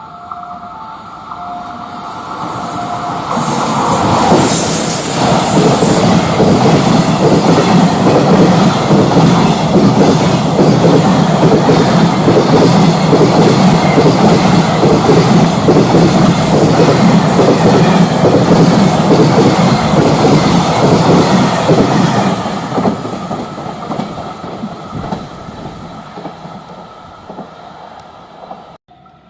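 Container freight train hauled by an electric locomotive passing close by on mainline track, with a fast, steady clickety-clack of wagon wheels over rail joints. It builds up over the first few seconds, stays loud for about eighteen seconds, then fades away as the train recedes.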